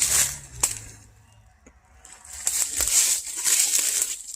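Footsteps and rustling through dry brush and briars, with a few sharp snaps. The rustling fades to near quiet for about a second in the middle, then picks up again.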